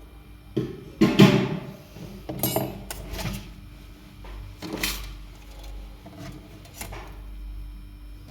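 Small hard objects being handled and set down: a few clattering knocks and rattles, the loudest about a second in, over a steady electrical hum.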